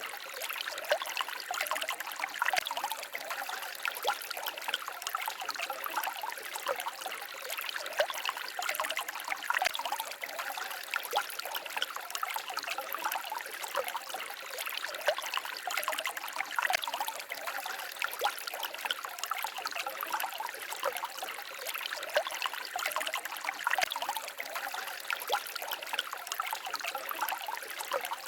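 Small forest stream trickling and babbling over stones, a steady dense patter of many small splashes.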